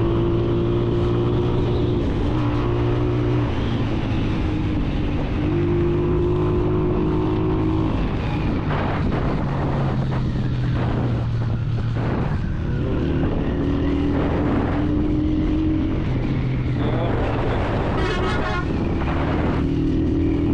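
A Honda 125 motorcycle's single-cylinder four-stroke engine running under way. Its pitch shifts up and down every few seconds with throttle and gear changes.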